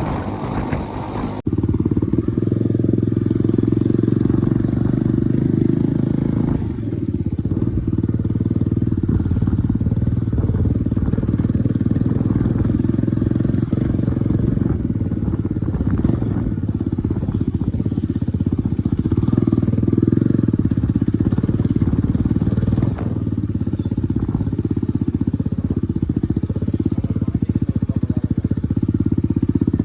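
Bajaj Dominar 250 single-cylinder engine running steadily through an opened-up exhaust with its baffle removed, giving a deep, unmuffled exhaust note. A hiss over it cuts off about a second and a half in.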